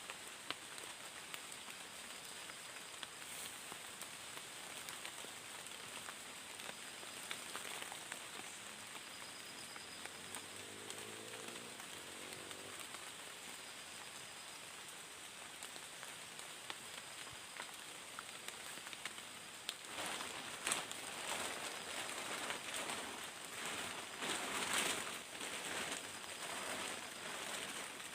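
Rainforest ambience: a steady crackly, pattering hiss with a faint high insect drone. From about twenty seconds in come louder bursts of rustling.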